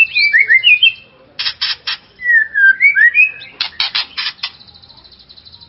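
White-rumped shama (murai batu) singing: fluting whistled notes that slide up and down, alternating with quick runs of four or five harsh, rasping notes. It is a pancingan song, meant to rouse other shamas to sing.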